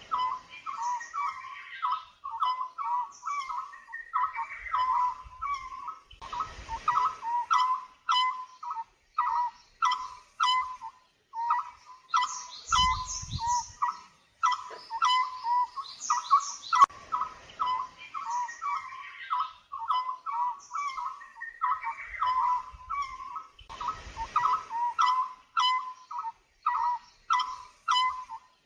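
Wild birds singing and calling: a steady run of short, repeated notes mixed with higher, quicker chirps. There are a few brief low rumbles in between.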